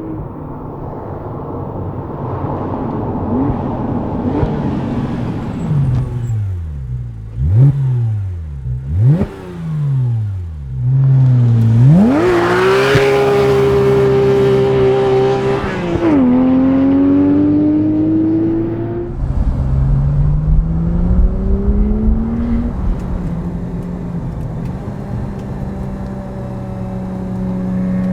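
Porsche 911 R's naturally aspirated 4.0-litre flat-six revving hard: a few quick rises and falls in pitch, then a fast climb to high revs held for about four seconds. The pitch drops suddenly at a gear change and climbs again before settling to a steadier note near the end.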